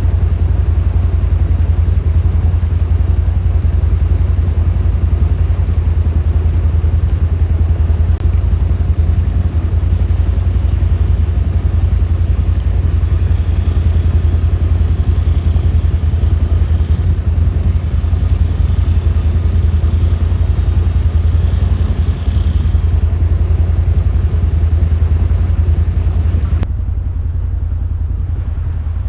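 ATV engine running steadily under way, a strong low hum with mechanical noise on top. About three seconds before the end the sound turns duller and a little quieter.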